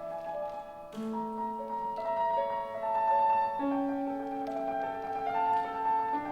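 Piano playing a slow classical passage: sustained notes and chords ringing over one another, with a new chord struck about a second in.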